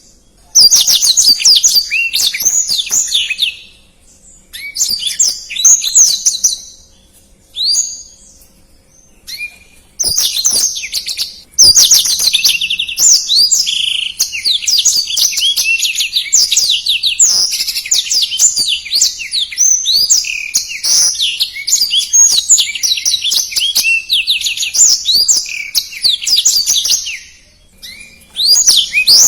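Black-throated canary (blackthroat) singing fast, tightly packed warbling phrases. A few short bursts and single notes come first, then a long unbroken run of song, a brief pause, and a fresh phrase near the end.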